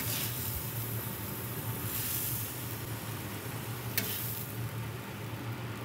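Spiralized zucchini sizzling in oil on a hot flat-top griddle while a metal spatula stirs it, over a steady low hum. A single sharp click about four seconds in.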